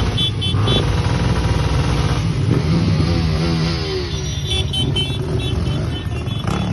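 Several motorcycle engines running as riders ride past, one engine's pitch sliding downward about halfway through as it goes by.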